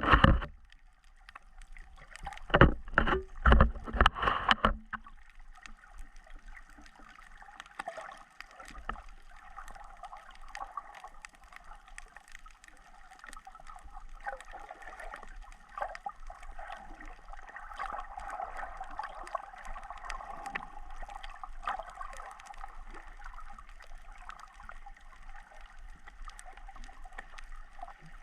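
Water gurgling and sloshing with a steady wash and many faint crackling clicks, after a few loud thumps in the first five seconds.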